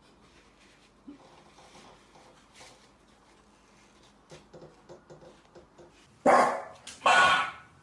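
A dog barking twice, loud and short, near the end, after a few quiet seconds with faint small sounds.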